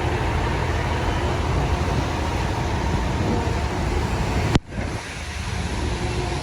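Steady rushing, rumbling outdoor noise, heaviest in the low end. It cuts out abruptly about four and a half seconds in, then comes back a little softer.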